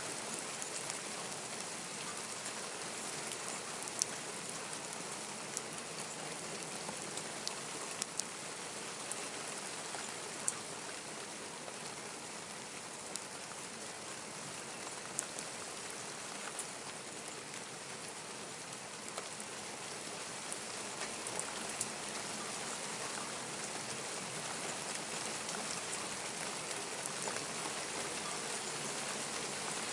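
Steady heavy rain falling on surfaces, an even hiss broken by scattered sharp ticks of nearby drops striking.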